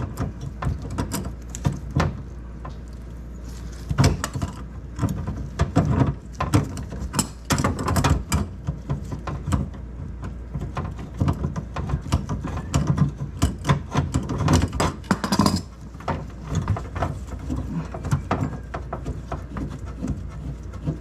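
Irregular clicks, taps and knocks of hands and tools working on the refrigerator's water valve fittings, over a steady low hum.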